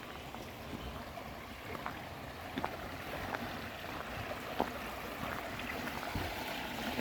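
Quiet outdoor ambience of water running and lapping at a reservoir, with a few faint light clicks scattered through it.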